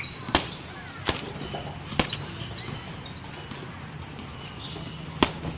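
A heavy punching bag being struck: four sharp, thudding hits at uneven intervals, three in the first two seconds and one near the end.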